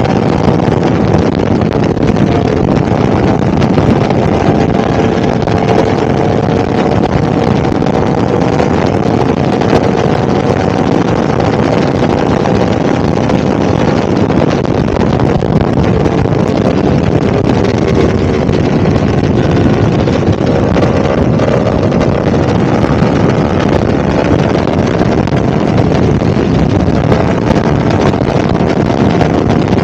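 Yamaha R1 sport bike's inline-four engine running at a fairly steady speed while riding, its pitch drifting slowly, nearly buried under heavy wind noise on the microphone.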